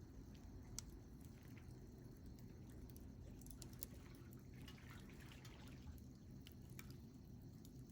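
Wood campfire burning quietly, giving faint, scattered pops and crackles with a soft hiss now and then.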